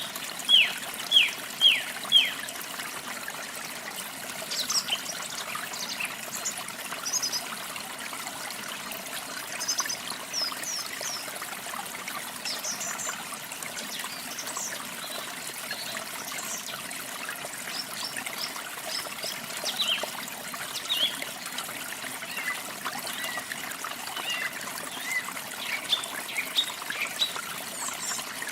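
Water trickling steadily, with small birds chirping over it: a quick run of about five loud falling chirps in the first two seconds, then scattered short, high chirps.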